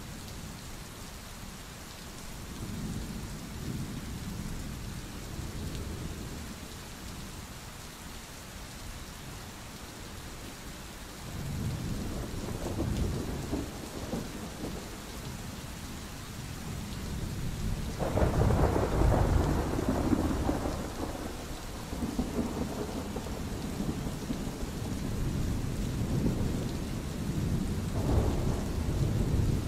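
Steady rain during a thunderstorm, with rolling thunder rumbling in low swells; the loudest roll starts suddenly about two-thirds of the way through.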